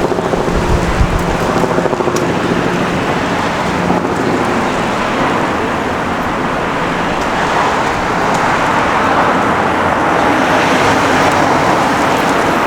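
City street traffic noise: a steady wash of passing vehicles, with a low engine hum for the first few seconds and the noise swelling as traffic comes closer in the last few seconds.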